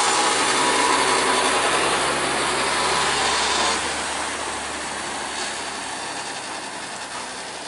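Heavy truck's diesel engine running close by with a steady low hum and a loud hiss of noise, fading away gradually from about four seconds in.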